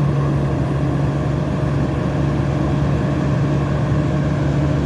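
Cat 320D2 hydraulic excavator's diesel engine running steadily at working speed, heard up close, with a steady drone and a low rumble. The machine is set to its normal power mode.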